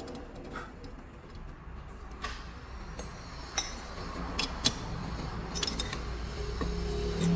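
Metal tools and parts clinking and tapping now and then, a few sharp clinks from about two seconds in, over a low steady hum.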